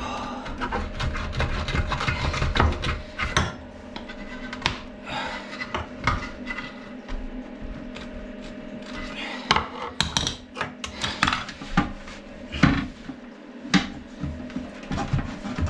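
Hand tools knocking, clinking and scraping in irregular sharp strikes while working at wooden boxing around a toilet pan.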